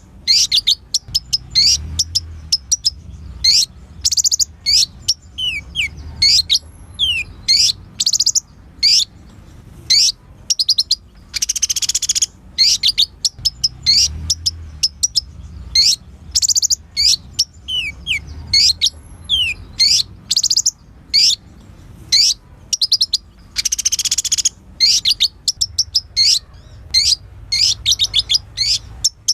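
Kolibri ninja sunbird singing: rapid, high, sharp chirps and short down-slurred notes in a continuous run, broken by denser trilling bursts about twelve seconds apart.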